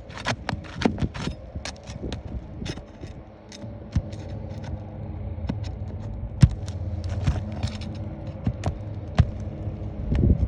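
Irregular scrapes, clicks and a few sharp knocks of work on an asphalt shingle roof, over a steady low hum.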